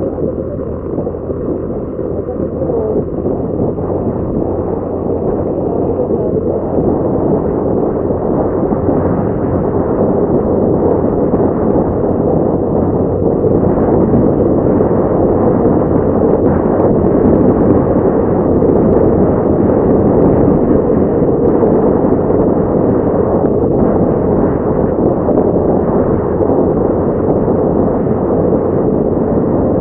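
Steady rumbling wind buffeting the microphone of a moving motorcycle, mixed with engine and road noise, gradually growing louder.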